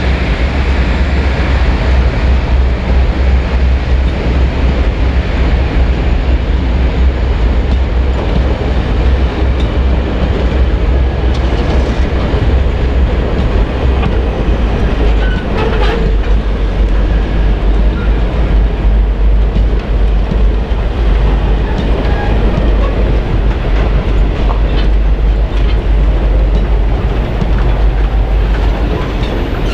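Diesel-hauled train running along the track: a steady, loud, low engine rumble with the rolling noise of the cars and wheels clicking over rail joints.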